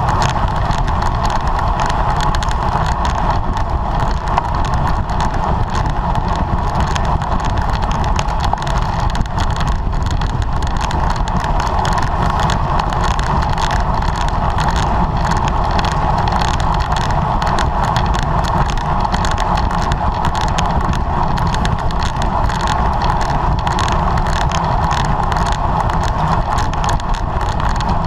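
Steady rush of wind and road noise from a racing bicycle moving at speed, without a break.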